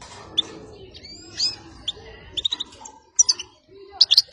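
European goldfinch giving short, high chirping call notes, some rising, every half second or so, then breaking into a loud, fast twittering song near the end.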